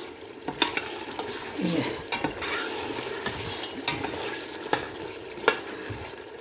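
Bone-in chicken pieces sizzling in curry masala in a steel pot while being stirred, with a metal spoon clinking against the pot about five times.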